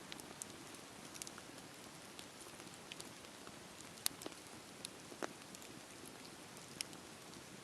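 Campfire burning with a steady soft hiss and scattered sharp crackles and pops from the wood, the loudest about four seconds in.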